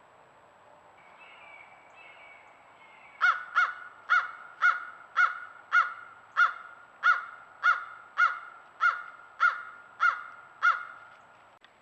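A bird calling in a long, steady series of about fifteen loud, evenly spaced calls, nearly two a second, starting about three seconds in.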